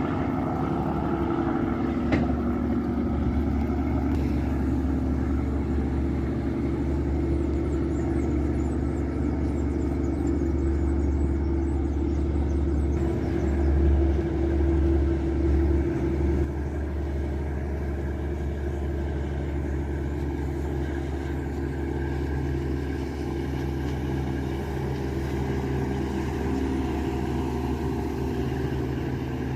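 Riverboat's 829 hp Yanmar marine diesel engine running steadily, a deep drone with a low hum. A sharp click sounds about two seconds in, and the drone eases a little past the halfway point.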